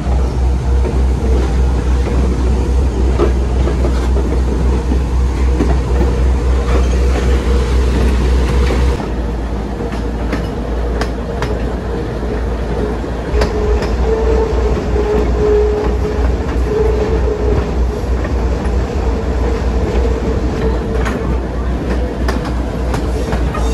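Train cars rolling along the track, heard from on board: a steady heavy rumble with a rattling clickety-clack. For several seconds past the middle, a steady whine rises above the rumble.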